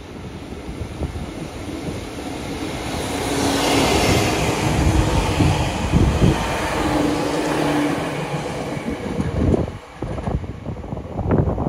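Freight train of an EF65 electric locomotive hauling unpowered Seibu New 2000 series commuter cars passing at speed: wheels rumbling and clacking on the rails, building to loudest around the middle as the locomotive and first cars go by. Near the end wind buffets the microphone.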